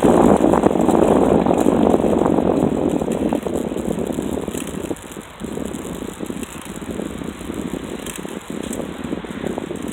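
Bicycle rattling and rumbling as it rolls along, loudest for the first few seconds, then easing off with brief dips about halfway through.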